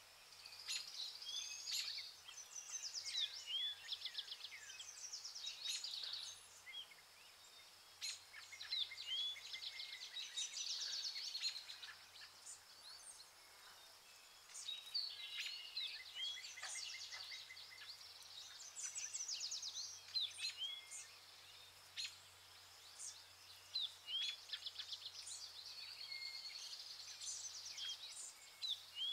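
Several small birds chirping and singing, with short hooked calls and rapid trills overlapping, over a faint steady low hum.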